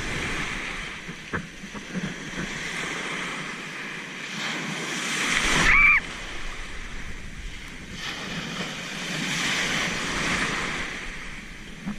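Ocean waves breaking and washing in. The surf sound builds to a peak and cuts off suddenly about six seconds in, then swells again later.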